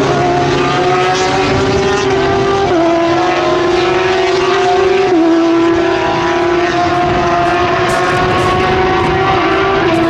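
Open-wheel single-seater race car engines at speed, one note climbing steadily and dropping sharply at each upshift, about three times.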